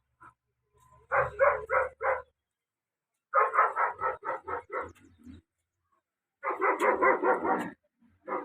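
A dog barking in three quick bouts of several barks each, at about four to five barks a second.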